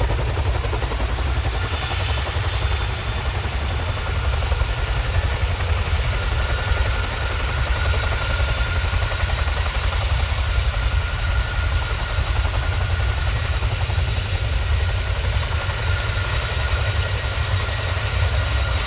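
Boeing CH-47 Chinook twin-rotor helicopter taxiing: a steady, choppy low rotor beat under a constant high turbine whine.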